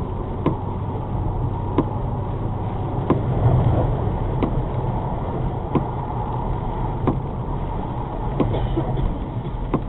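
Car driving in the rain, heard from inside the cabin: steady engine and tyre rumble with the windscreen wipers knocking once per sweep, about every second and a bit.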